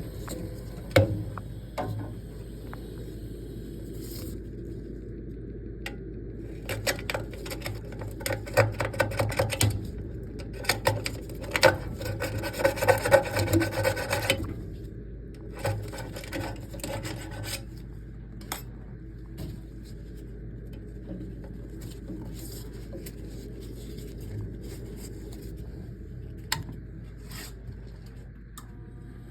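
Rubbing and scraping with scattered clicks, busiest from about a fifth to halfway through, over a steady low hum.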